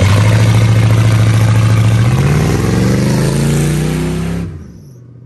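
Car engine revving hard as the car launches in reverse: a steady high-revving drone that climbs in pitch from about two seconds in, then falls away sharply about four and a half seconds in.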